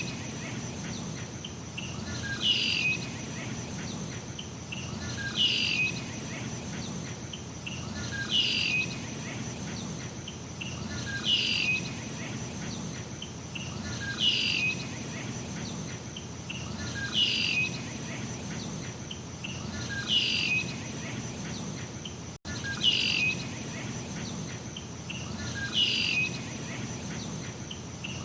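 Nature ambience: a bird repeating one short falling call about every three seconds over a steady, high-pitched insect trill.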